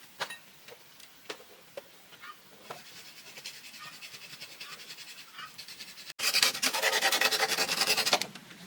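A hand tool rasps and scrapes on bamboo. A few light taps come first, then fast, quiet rasping strokes. About six seconds in, much louder fast rasping starts and runs for about two seconds.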